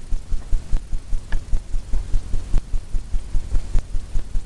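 A paintbrush knocked repeatedly to shake excess oil paint off it: a fast, regular run of dull thumps, about five a second.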